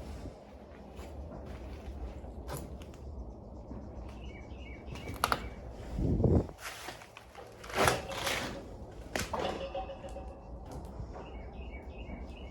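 Footsteps crunching irregularly over dry ground and debris, the loudest about six and eight seconds in. Small birds chirp briefly twice, once near the middle and once near the end, over a low steady rumble.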